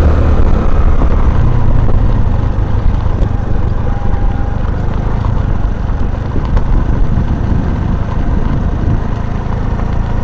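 Honda Navi's small air-cooled single-cylinder four-stroke engine running at a steady riding pace, with the tyres rolling over a stone-and-gravel road.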